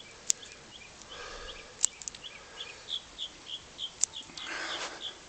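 Three sharp snips of pruning shears cutting through a parrot's beak stem. A bird chirps repeatedly in the background with short, evenly spaced calls from about halfway in.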